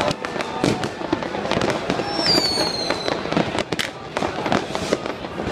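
Fireworks going off: a dense, irregular run of bangs and crackles, with one whistling firework giving a falling whistle about two seconds in.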